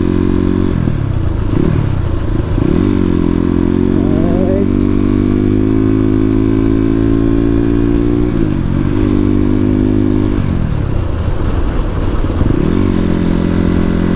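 Suzuki RM250 two-stroke dirt bike engine under way, its pitch dropping as the throttle closes and climbing again as it opens, a few times over.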